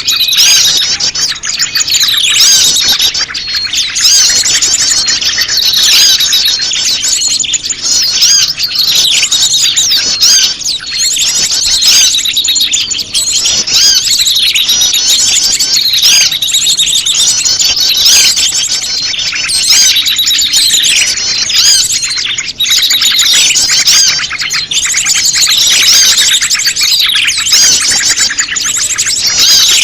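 Bird-lure recording of prenjak lumut calls mixed into a dense chorus of many small birds chirping and trilling at once, with no break. Falling, sweeping calls recur every couple of seconds.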